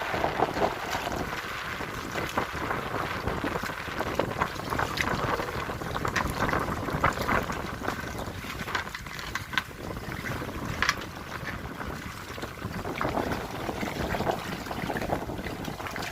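Choppy waves splashing and slapping around a kayak, in irregular bursts over a steady wash of water, with wind buffeting the microphone.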